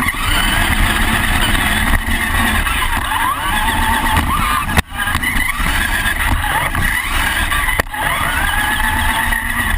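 Remote-control monster truck driving hard, its motor whining up and down in pitch over loud rolling noise. The sound cuts out briefly twice.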